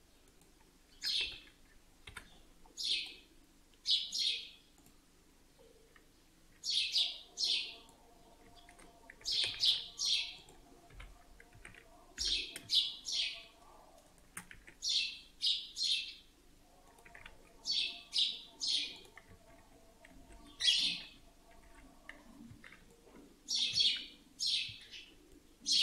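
A bird chirping: short, high chirps in quick groups of two to four, repeating every two to three seconds.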